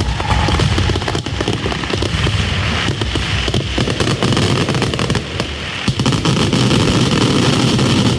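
Fireworks going off in a dense, continuous barrage of rapid crackling bangs.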